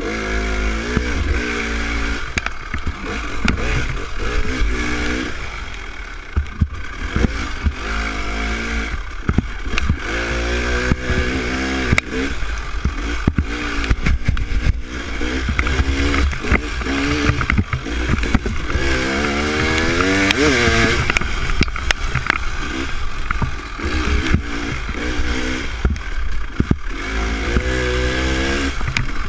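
Dirt bike engine revving up and down as it is ridden slowly along a trail, its pitch rising and falling with each throttle change, with scattered knocks and rattles.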